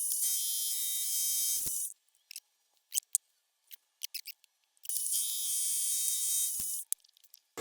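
Milling machine cutter running through metal: a steady high whine with hiss, in two stretches of about two seconds each, with sharp clicks in the gaps between them.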